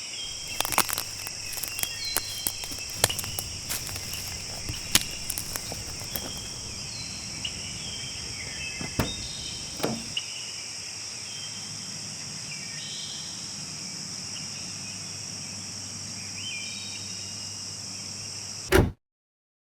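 Outdoor ambience of insects trilling steadily at a high pitch, with short bird chirps and scattered sharp clicks, most of them in the first half. A brief loud thump comes near the end, then the sound cuts to silence.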